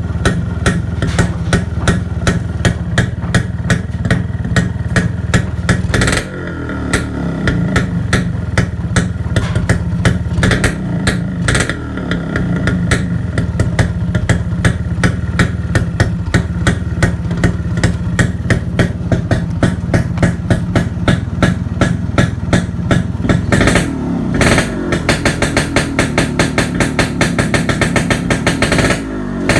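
Kawasaki HD3 two-stroke motorcycle engine, converted to a Brutus 140 block and carb, running with a rapid, regular sharp popping from the exhaust. The engine speed shifts a few times: about six seconds in, around twelve seconds, and near the end.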